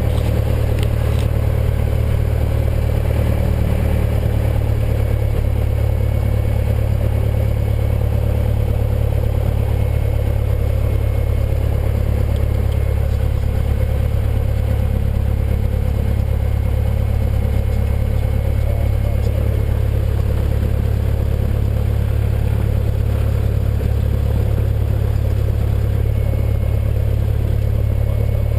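Cessna 172N's four-cylinder Lycoming piston engine and propeller running steadily at idle just after start-up, a constant low drone.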